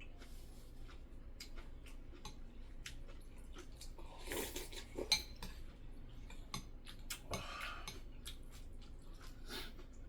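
Eating utensils clicking and clinking against dishes, a steady scatter of small taps with louder clatters about four and seven seconds in.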